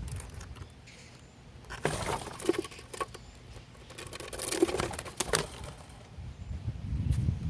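Birds fluttering and scrabbling at a feeder in two short bursts, about two seconds in and again around five seconds in.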